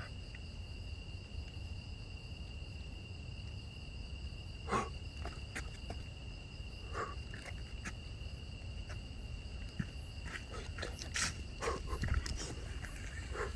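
Night insect chorus, crickets giving a steady, unbroken high-pitched trill, over a low rumble, with a few short sharp sounds scattered through, the loudest about five seconds in and again near the end.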